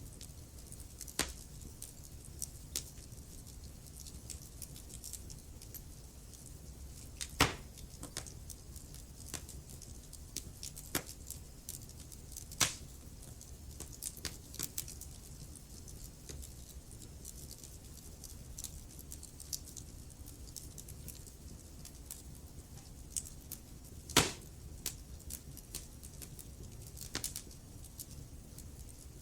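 Wood fire burning in a fireplace, crackling: scattered sharp snaps and pops over a low, steady background, with louder single pops about seven, twelve and twenty-four seconds in.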